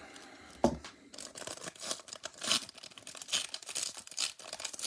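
Bowman Platinum trading-card pack being torn open by hand, the wrapper crinkling and rustling with a quick run of crackles. A single soft thump about two thirds of a second in.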